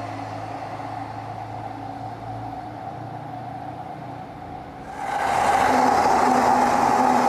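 Rail and road traffic noise: a steady low rumble that becomes suddenly much louder, a wide rushing noise, about five seconds in.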